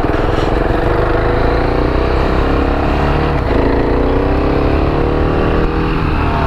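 KTM 690 Duke's single-cylinder engine pulling away under acceleration. The revs climb steadily, drop at an upshift about three and a half seconds in, then climb again and change once more near the end. A steady rushing noise runs underneath.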